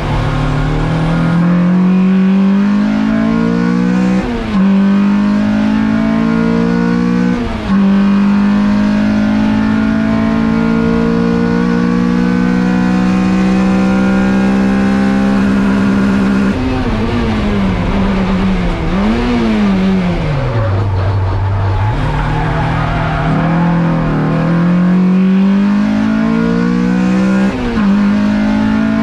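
Toyota MR2 engine heard from inside the cockpit under hard acceleration on a track lap. Revs climb and drop sharply for two upshifts in the first few seconds, then run high and steady for several seconds. In the middle the revs fall and rise and fall again as the car slows and changes down, then climb again with one more upshift near the end.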